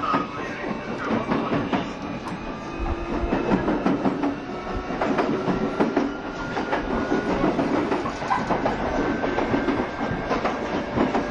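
A JR Shikoku 7200 series electric train running, heard from inside the car: wheels clattering over the rails with a steady rumble, and a thin whine that rises slowly in pitch.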